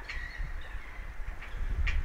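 Birds calling, with gusts of wind rumbling on the microphone.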